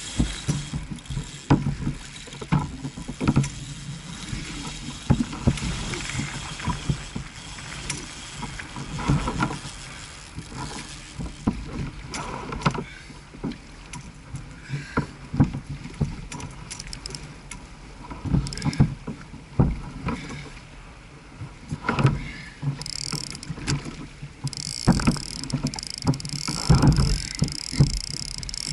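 Water sloshing and knocking against a fishing kayak's hull, with irregular thumps throughout. Near the end a steady high-pitched buzz joins in.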